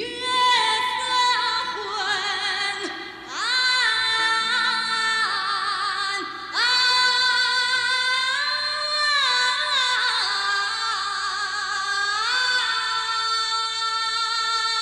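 A woman singing a slow ballad melody in long held notes with vibrato and gliding pitch changes, over soft instrumental accompaniment.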